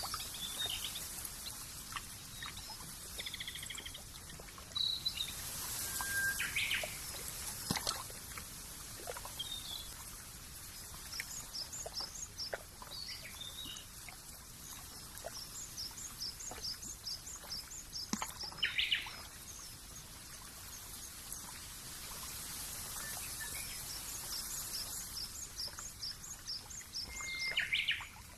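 Birds chirping and calling, with two runs of quick, evenly repeated high notes, one in the middle and one near the end, over a steady soft hiss.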